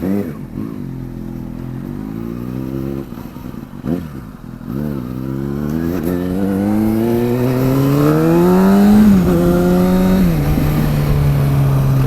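Kawasaki ZX-6R inline-four sport bike engine, breathing through an aftermarket TOCE undertail exhaust, pulling away and accelerating. The engine note rises in a few short pulls, then climbs in one long pull that drops off about nine seconds in as it shifts up. It drops again shortly after and settles to a steadier note.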